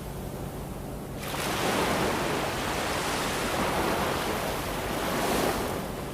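Ocean waves breaking on a shore. A low rumble gives way about a second in to a wave breaking, and surf washes in with a loud hiss that eases off near the end.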